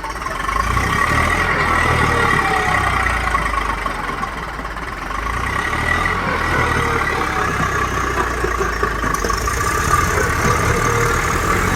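Tractor diesel engine running steadily, growing louder about half a second in and easing off briefly in the middle.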